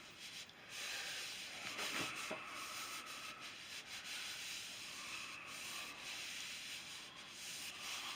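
Towel rubbing along a wooden walking stick, wiping off freshly applied wet wood stain: a steady scrubbing hiss, with a faint knock about two seconds in.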